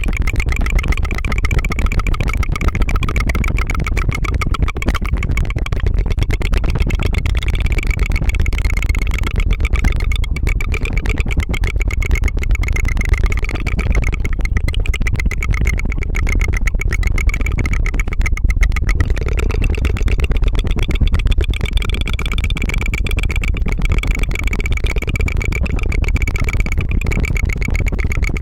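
Rapid tongue fluttering right at the microphone: a continuous fast rattle of tiny clicks over a low rumble, running like a small engine.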